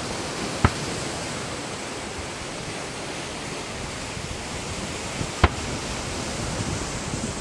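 Fireworks going off: two sharp bangs, one under a second in and a louder one a little past halfway, over a steady hiss of background noise.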